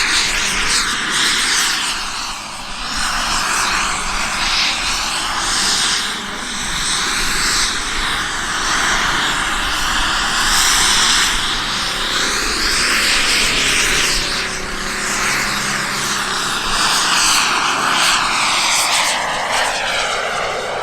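Model jet turbine engine of a Carf Mephisto V2 flying aerobatics, its whine gliding up and down in pitch as the jet swoops past and the throttle changes. Wind rumbles on the microphone underneath.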